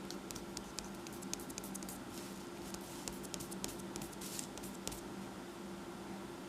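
Pencil sketching on paper: a run of short, light scratchy ticks from the strokes, over a faint steady hum.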